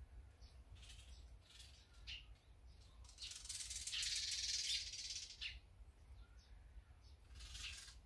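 Small songbirds chirping with short, separate calls, and a louder, denser stretch of about two seconds in the middle.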